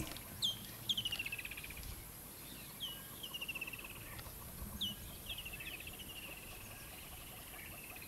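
A bird calling several times: each call is a sharp downward note followed by a fast, gradually falling trill lasting about a second.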